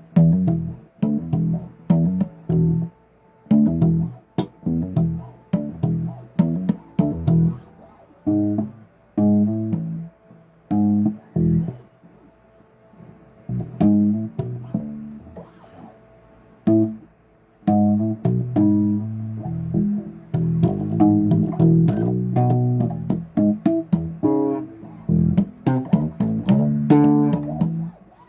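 Bass guitar played solo, single plucked notes and short riffs with brief pauses between phrases, busier near the end.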